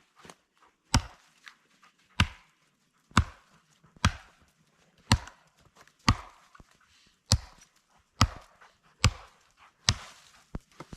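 Wood being chopped with an axe: about ten sharp strikes at a steady pace, roughly one a second.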